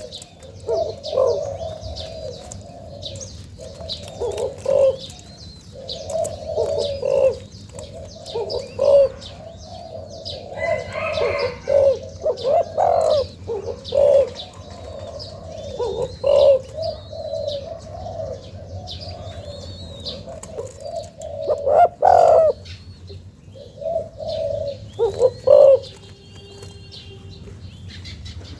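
Young spotted dove cooing in repeated low phrases, with small birds chirping faintly in the background.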